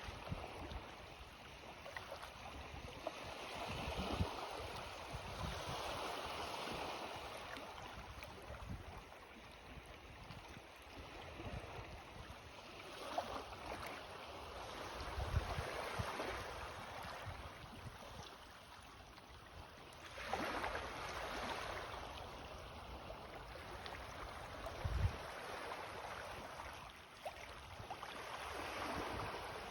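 Small sea waves of the incoming tide washing and lapping on the shore, each wash swelling and fading over a few seconds, with a few short low thumps among them.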